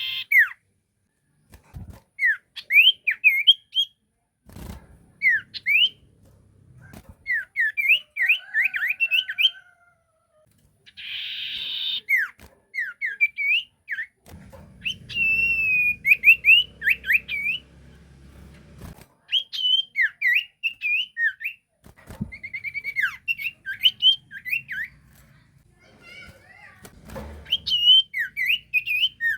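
Sirtu bird singing: phrase after phrase of quick, rising whistled notes, each phrase a second or two long with short pauses between. A harsh, scratchy burst comes about eleven seconds in.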